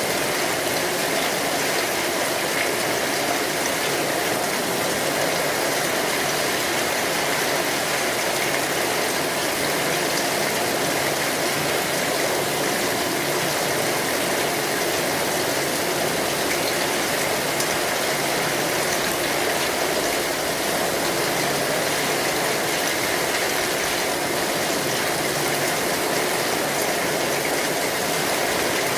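Steady rain falling on an umbrella canopy: a constant, even hiss of drops with no breaks or changes.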